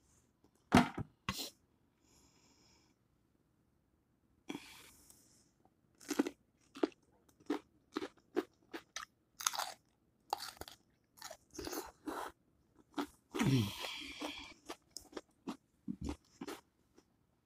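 Close-miked eating of saucy seafood-boil food: irregular wet chewing and lip-smacking clicks, sparse early and dense from about a third of the way in. A brief low sound falls in pitch about three-quarters of the way through.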